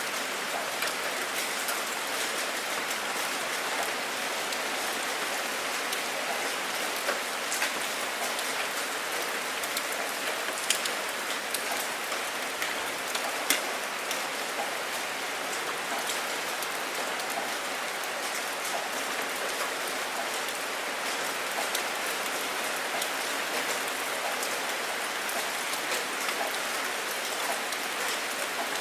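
Steady rain falling, an even hiss with scattered close drops ticking, a few louder ones standing out now and then.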